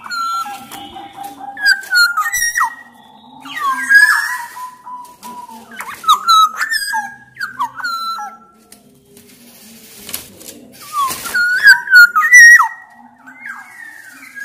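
Black-naped oriole (kepodang) singing: loud, fluting whistled phrases that slide up and down in pitch, mixed with a few short harsh rasping notes, with a brief lull a little past the middle.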